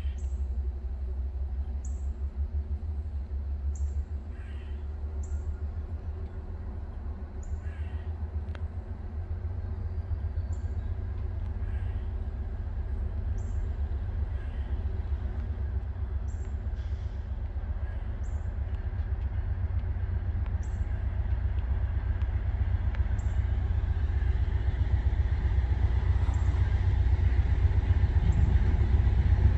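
Approaching diesel freight train: a low rumble with a steady engine drone that grows steadily louder. Short high chirps, likely from birds or insects, repeat every second or two.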